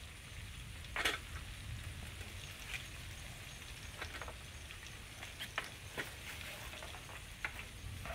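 Food frying in a pan over a campfire: a faint sizzle with scattered crackles and pops, the loudest about a second in, over a steady low rumble.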